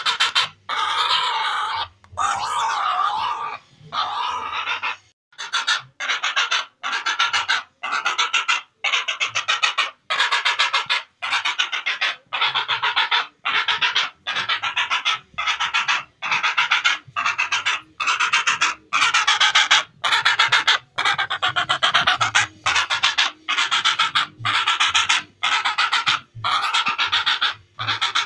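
Heron calls: a long series of harsh, buzzy, rattling calls, repeated a little more than once a second with short gaps between them.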